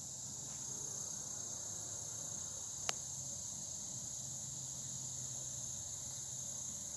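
Steady, high-pitched insect chorus, with one sharp click about three seconds in and a faint low hum underneath.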